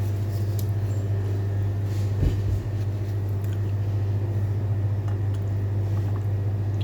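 Steady low hum at a constant level, with a single dull thump about two seconds in.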